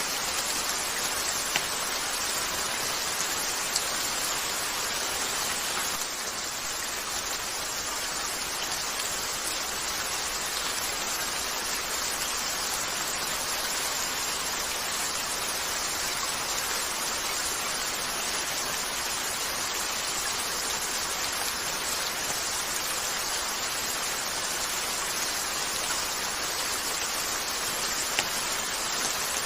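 Steady rain falling on a window, an even hiss, with a few sharp pops from a crackling wood fire.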